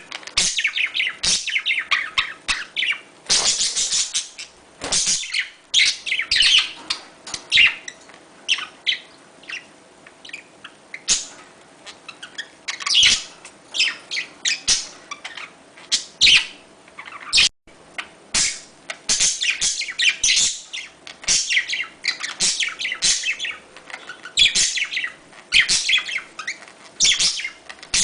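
Budgerigars chattering and warbling in quick, irregular bursts of chirps and clicks, the kind of chatter played to budgies to bring them into breeding condition. There is a brief break about two-thirds of the way through.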